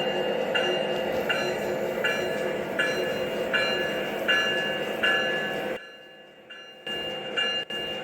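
Model diesel genset switcher's onboard sound system playing a running diesel engine while the locomotive bell rings steadily, about once every three-quarters of a second. About six seconds in, the sound drops away briefly, then the bell strikes return near the end.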